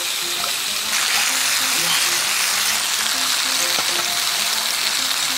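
Bacon and eggs frying on an electric multi-cooker griddle plate: a steady sizzling hiss that grows louder about a second in.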